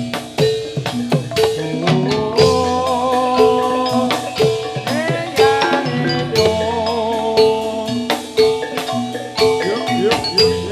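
Javanese gamelan music for a jathilan dance: bronze metallophones ring steady repeating notes over frequent drum strokes, with a wavering melody line above.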